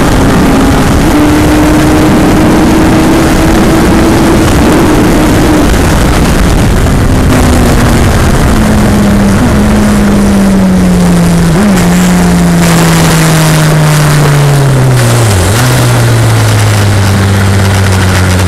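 Suzuki Hayabusa's 1340 cc inline-four with a Yoshimura TRC exhaust, heard over heavy wind rush. It holds high revs for a few seconds, then the engine note falls steadily as the bike slows, with a few brief blips, and settles to a steady idle about 16 seconds in.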